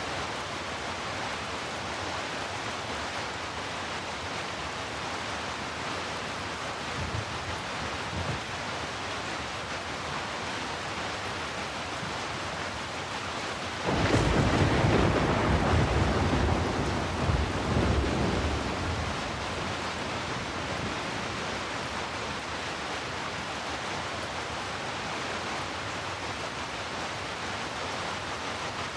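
Heavy rain falling steadily. About halfway through, a sudden thunderclap breaks in and rolls on as low rumbling for about five seconds before fading back into the rain; two faint low rumbles come a little earlier.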